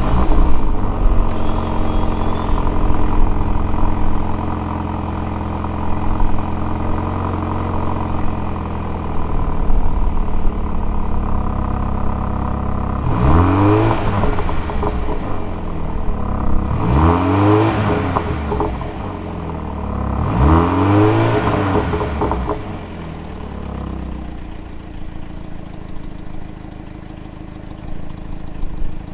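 BMW M235i Gran Coupe's turbocharged four-cylinder engine cold-starting in Eco Pro mode, flaring and settling into a fast idle, heard through its particulate-filtered exhaust with the valve closed. About halfway through it is blipped three times, each rev rising and falling, with light pops on the overrun. Then it drops back to a lower, quieter idle.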